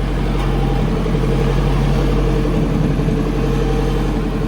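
Car engine idling steadily with an even hum.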